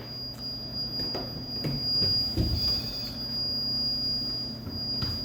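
A steady high-pitched electronic tone over a low electrical hum, with a brief wavering tone and a soft thud about two and a half seconds in.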